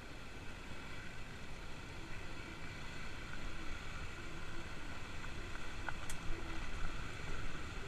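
Kawasaki KLX250's single-cylinder four-stroke engine running as the bike is ridden, mixed with rumbling wind noise on the microphone. A brief sharp click about six seconds in.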